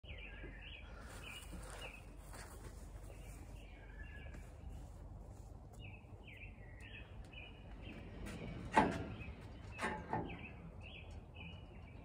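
A small bird chirping over and over, short falling chirps a fraction of a second apart, over a faint outdoor background. Near the end come two louder knocks about a second apart.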